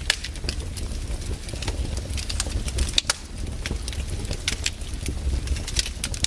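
Wood campfire crackling, with irregular sharp pops over a steady low rumble; one of the loudest pops comes about three seconds in.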